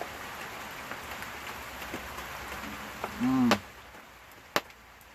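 Steady rain hiss, rain falling on surfaces, which grows quieter about three and a half seconds in. Just before that comes a brief hum of a man's voice, and near the end a single sharp click.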